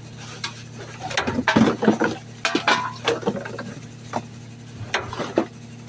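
Garbage truck engine idling steadily, with irregular knocks, clatters and rustles as trash bags are handled at the rear hopper.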